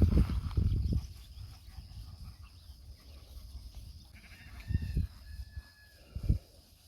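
Sheep bleating faintly, one call about four seconds in, with low thumps at the start and a couple more near the end.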